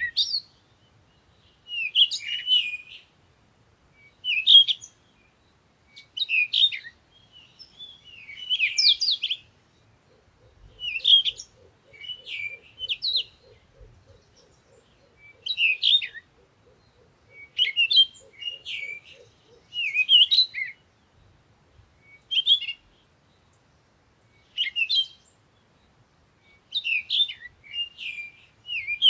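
Songbird singing in short, quick, varied chirping phrases about every two seconds, with gaps between them. For several seconds in the middle, a faint low pulsing of about three beats a second runs underneath.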